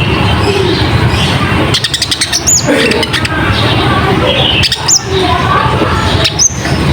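Konin (kolibri ninja sunbird) singing a busy, chattering lure song over a loud steady hiss, with a run of quick clicks in the first half and three short high whistles, each rising then dropping, a couple of seconds apart.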